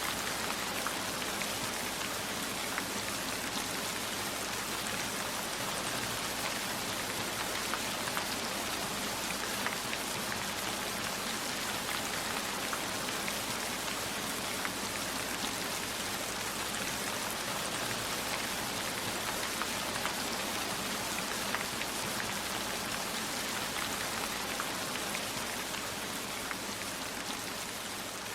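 Steady heavy rainfall, an even hiss of rain with many single drops ticking sharply through it.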